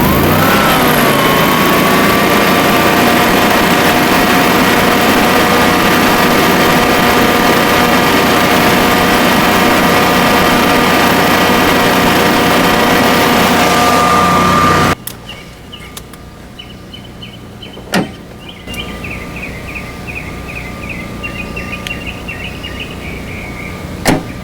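Generac 20 kW whole-home standby generator's V-twin engine running steadily just after starting, its pitch settling about a second in. It cuts off abruptly about 15 s in, leaving a quieter background of chirping insects with two sharp clicks.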